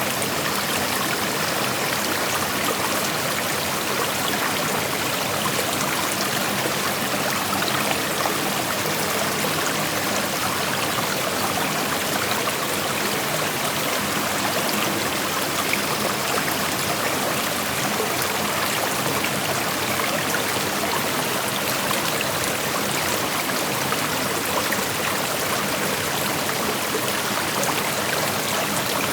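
Shallow creek water flowing and splashing over rocks in a steady, even rush.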